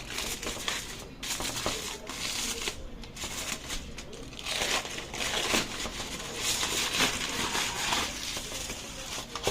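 Crinkling and rustling from something being handled, in uneven bursts, loudest in the second half.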